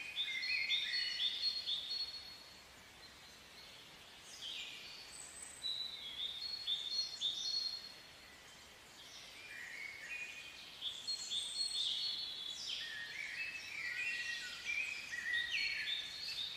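Small birds singing: bouts of quick, high chirps and trills, with two short lulls between them.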